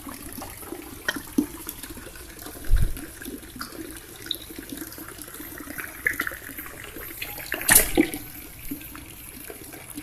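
Water splashing and trickling, with a dull low thump a little under three seconds in and a short, sharp splash about three-quarters of the way through.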